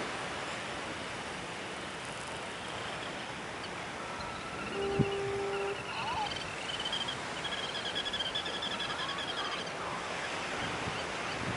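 A steady outdoor wash of surf and wind noise. Near the middle a steady tone sounds for about a second, and in the second half a run of rapid, high chirping trills comes and goes.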